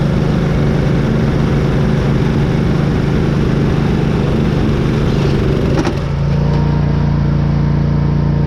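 Small riding-mower engine running hard and steady. About six seconds in the sound changes abruptly to a smoother, steadier engine hum.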